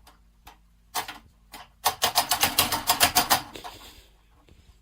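A few scattered sharp taps, then about two seconds in a quick run of taps, about eight a second, lasting a second and a half.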